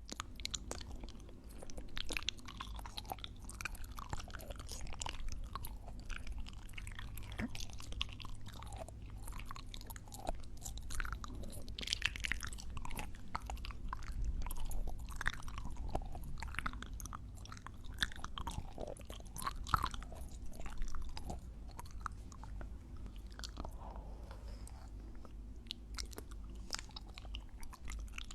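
Close-miked ASMR chewing and biting, a dense run of small wet clicks and pops, over a steady low hum.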